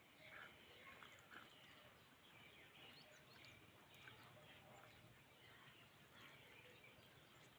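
Faint outdoor ambience with many short, scattered bird chirps.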